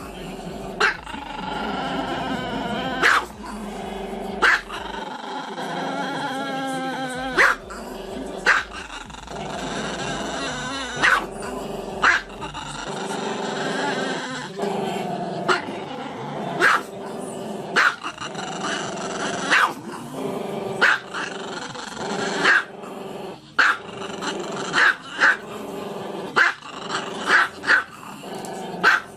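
A dog growling steadily, broken by sharp barks about once a second.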